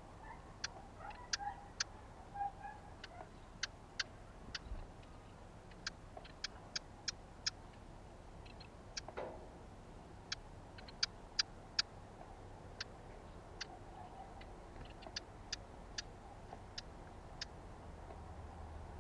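A run of short, sharp ticks at an uneven pace, roughly one to three a second, with faint chirps in the first few seconds.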